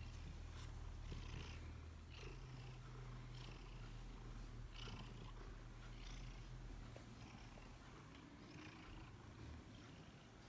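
Bengal cat purring continuously in a low rumble, with a faint pulse about once a second.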